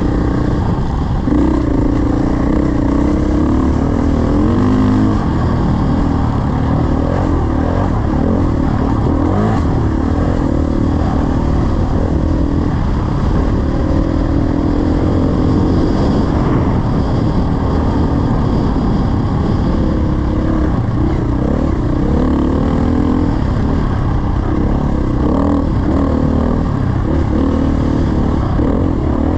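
Dirt bike engine running under load while riding, its pitch rising and falling as the throttle and gears change.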